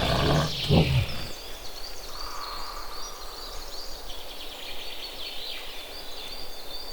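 A wild animal's low growl stops about a second in. Then quiet natural ambience, with a continuous run of rapid high-pitched chirps.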